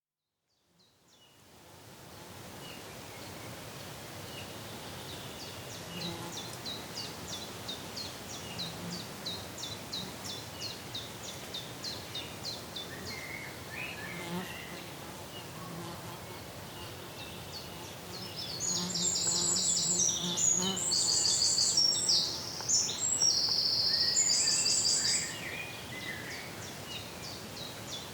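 Outdoor ambience of animal calls: short high chirps repeating about two or three times a second. From about two-thirds of the way in, a louder stretch of rapid, buzzy pulsed trills lasts several seconds.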